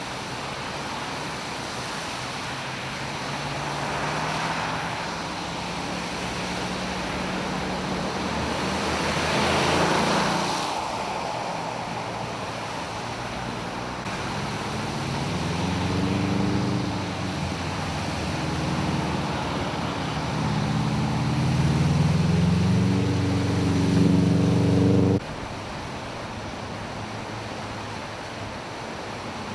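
Traffic driving through a flooded street: tyres rushing and sloshing through standing water, and vehicle engines running. From about halfway the engine sound rises and falls and grows louder, then cuts off suddenly near the end.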